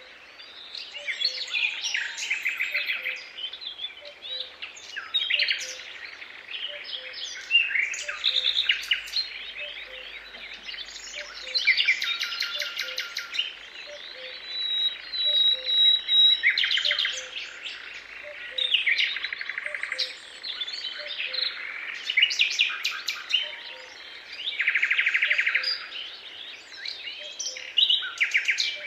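Several songbirds singing at once, in overlapping bursts of trilled and chirped phrases every few seconds. Under them a faint low note repeats a little faster than once a second.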